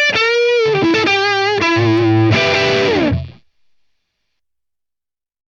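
Distorted electric guitar on its neck pickup playing a lead line through a modelled Marshall JCM 800 amp: sustained notes with wide vibrato, ending in a slide down about three and a half seconds in, then cutting off to silence.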